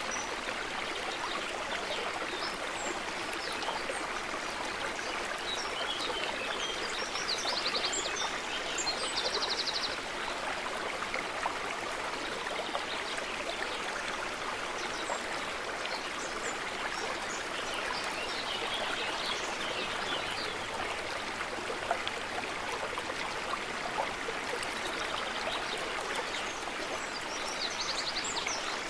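Stream water running steadily over rocks. Small birds chirp now and then above it, with a short rapid trill about nine seconds in.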